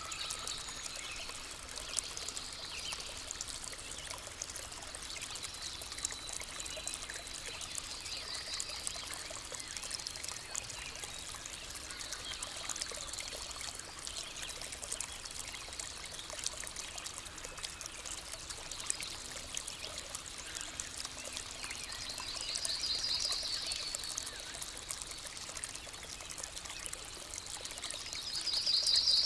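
Forest ambience: a small stream trickling steadily, with birds giving short, high, fast trills several times, the loudest near the end.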